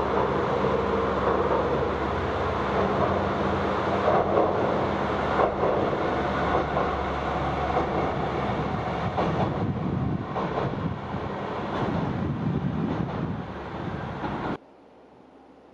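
Diesel railcar running on the rails: a steady engine drone under wheel and rail noise, with a few sharp clacks. It cuts off suddenly near the end, leaving a faint hiss.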